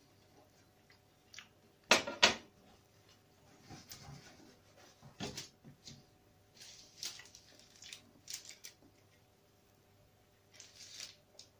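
Mouth sounds of someone chewing a bite of pastry slice, with two sharp clicks about two seconds in. Plastic packaging crinkles near the end.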